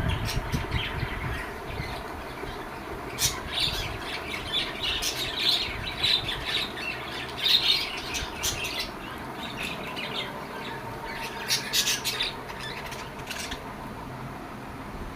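Lovebirds squawking in sharp, shrill chattering bouts, one starting about three seconds in and another around eleven seconds, over a steady faint hum.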